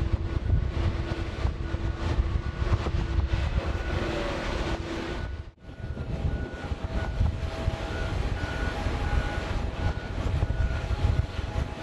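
Jet airliner engines: a steady, heavy rumble with faint steady whining tones. About five and a half seconds in the sound drops out for a moment, and when it returns the whining tones sit at a different pitch.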